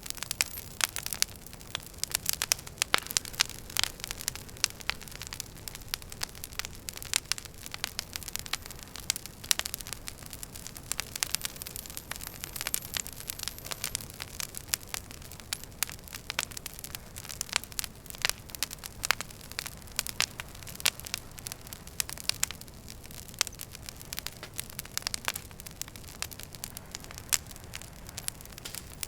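Wood fire in a fireplace crackling, with many irregular sharp pops and snaps over a steady low rush of burning.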